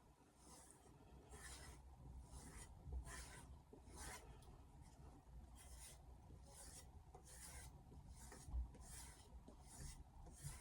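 Misono 210 mm Japanese knife blade being stroked along a plain suede leather strop: soft, faint swishes repeating steadily, about three strokes every two seconds.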